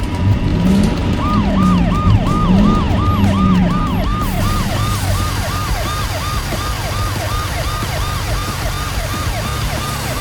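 Emergency-vehicle siren in yelp mode: quick falling whoops about three a second, starting about a second in, over a low rumble.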